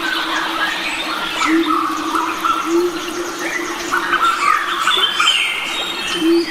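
A chorus of forest birds, several kinds calling and chirping over one another, with a low short note repeating about once a second underneath.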